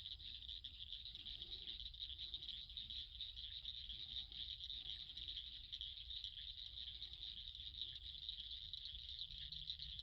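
Night chorus of insects, such as crickets or katydids, making a steady, dense high-pitched trill, with faint low frog calls now and then.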